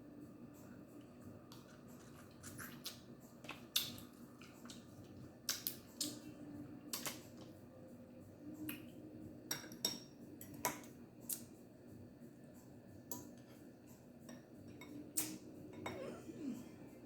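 Crab shells being cracked and picked apart: a scatter of sharp, irregular clicks and cracks.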